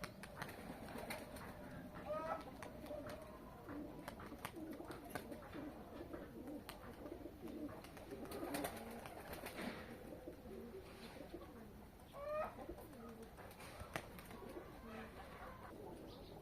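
Domestic pigeons cooing continuously in low, wavering warbles, with a couple of short rising calls from another bird about two seconds in and again near twelve seconds.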